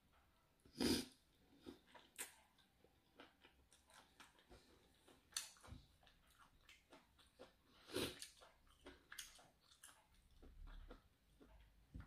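A person eating: faint chewing and mouth sounds with scattered small clicks, a louder one about a second in and another about eight seconds in.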